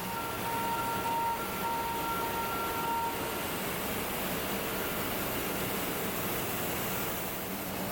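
Steady machinery noise of a factory floor, with two high steady tones sounding together for the first three seconds or so.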